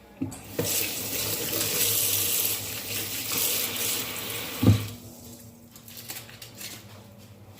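Kitchen tap running in a steady hiss for about four seconds, then a single knock.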